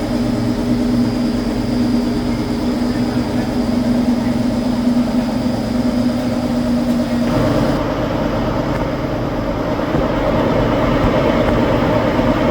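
Factory machinery running steadily with a held hum. About seven seconds in the sound changes abruptly to a rougher, noisier machine run.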